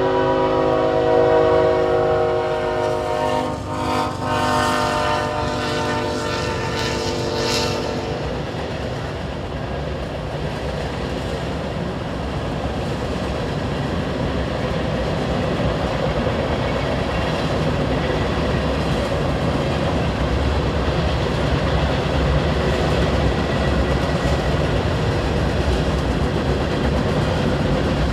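Freight locomotive's air horn sounding a long chord that ends about eight seconds in, followed by the steady rumble and rattle of loaded hopper cars rolling past on the rails.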